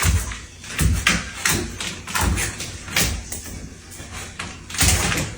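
A series of irregular thumps and knocks, a dozen or so, with a denser run of them near the end.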